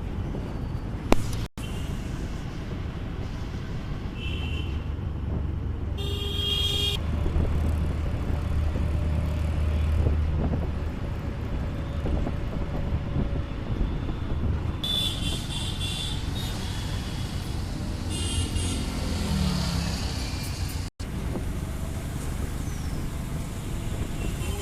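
Road traffic: the steady rumble of a vehicle on the move, with vehicle horns honking several times, a short beep about four seconds in, a longer blast around six seconds, and more horns later on.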